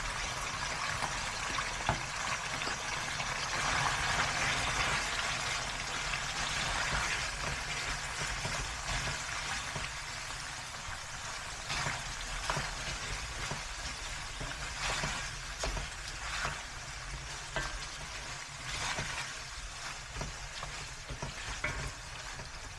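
Food sizzling and frying in a hot pan, loudest in the first few seconds and easing a little after, with occasional clicks of a utensil stirring in the pan.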